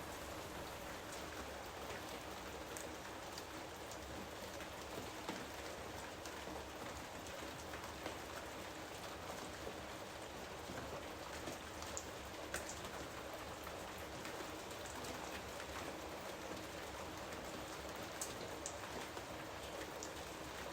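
Steady rainfall with individual drops pattering sharply here and there.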